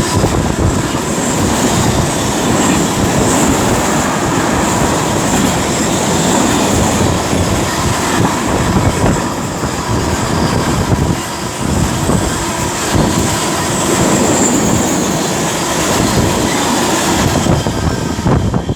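Class 66-hauled freight train running fast through the station: a loud, steady rush of wagons and wheels on the rails that drops away suddenly near the end as the train clears.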